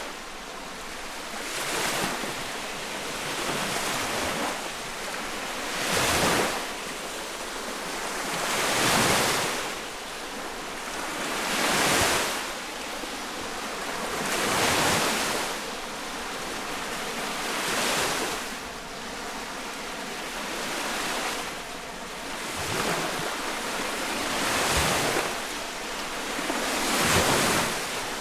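Freshwater lake waves breaking and washing onto the shore, heard close up: a surge of splashing wash every two to three seconds over a steady background of moving water.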